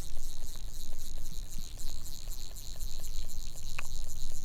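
A steady, high-pitched buzzing chorus of insects, pulsing slightly, over a low rush of creek water.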